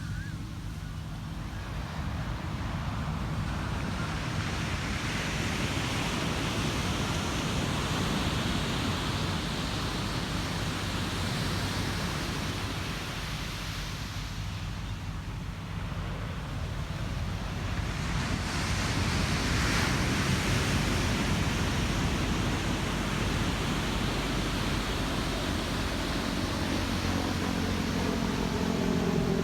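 Ocean surf: waves breaking and washing up the beach, rising and falling in two long swells. A low engine drone comes in near the end.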